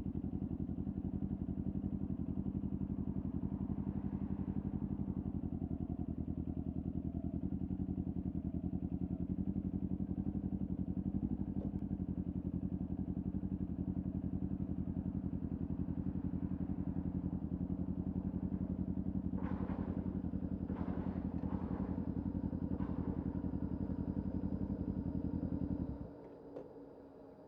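Kawasaki Ninja 400's parallel-twin engine with a LeoVince aftermarket exhaust idling steadily at constant revs. Near the end it cuts out abruptly as the engine is switched off.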